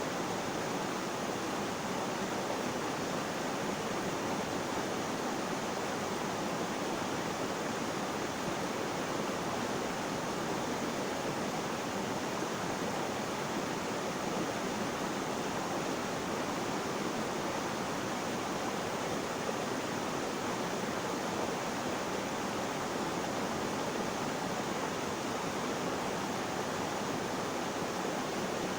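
Flowing water, a steady even rushing with no changes or separate splashes.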